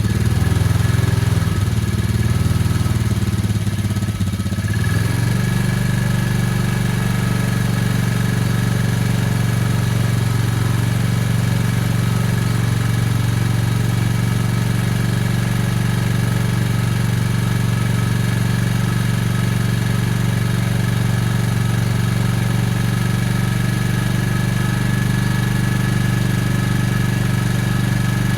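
Engine running just after a cold start: uneven for about the first five seconds, then settling suddenly into a steady idle. The cold engine is running rough, described as not happy at all.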